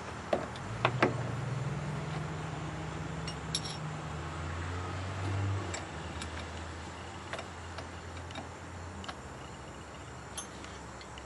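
A few sharp metal clinks about a second in, typical of a battery cable clamp being fitted to a terminal. A low steady hum follows and stops about nine seconds in, with scattered light ticks.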